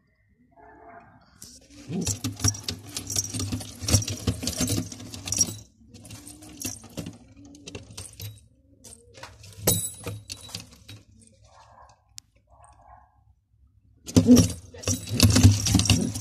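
Domestic pigeons stirring, with bursts of rapid clattering and flapping, one starting about a second and a half in and another near the end, and scattered clicks between.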